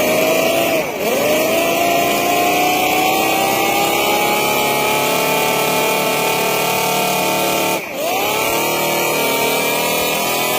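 Small homemade RC motor running at high speed with a steady whine that slowly climbs in pitch. Twice, about a second in and near eight seconds, it briefly drops sharply in pitch and spins back up.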